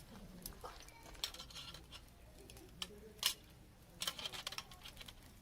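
Faint handling noises: scattered small clicks, taps and rustles of objects being moved about, the sharpest a single click a little past the middle.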